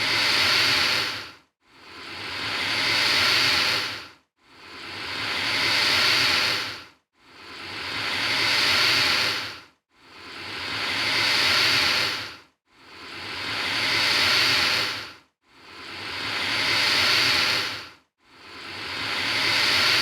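Alligator hissing: a breathy hiss that swells and then cuts off sharply, repeating at even intervals about every two and a half to three seconds, seven or eight times.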